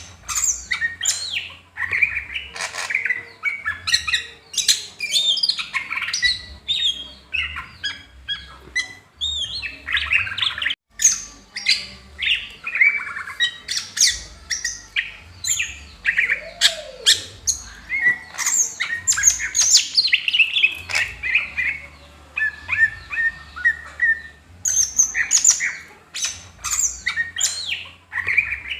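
Cucak hijau (green leafbird) singing a long, fast, varied song of chirps, whistled glides and harsher squawky notes, with one very brief gap about eleven seconds in.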